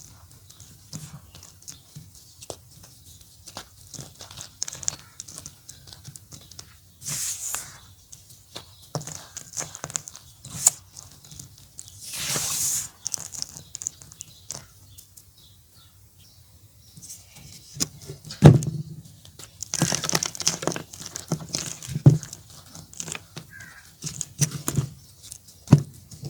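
Gym chalk being crumbled, a run of dry crackles and crunches with a few longer powdery scraping sounds.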